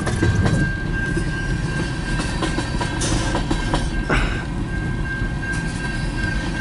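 Freight cars of a long CN mixed freight train rolling past with a steady low rumble and a continuous high-pitched wheel squeal, with two brief hisses about three and four seconds in.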